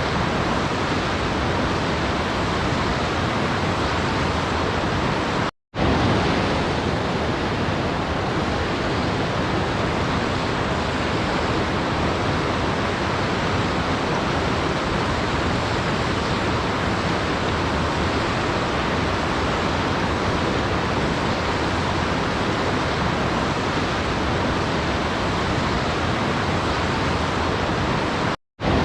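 Waterfall rushing, a steady, unchanging wash of water noise. It drops out twice to brief silence, about six seconds in and again near the end.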